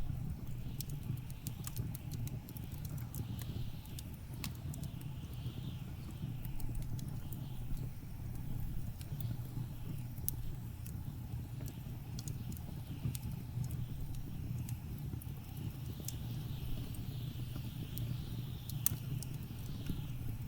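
Wood fire crackling with scattered sharp pops over a steady low rumble of blizzard wind, with soft hissing gusts swelling and fading every couple of seconds.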